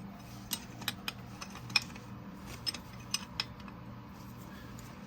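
Sharp, irregular metallic clicks of hand tools working on a Caterpillar 3406E diesel engine's injector, about eight in the first three and a half seconds, over a steady low hum.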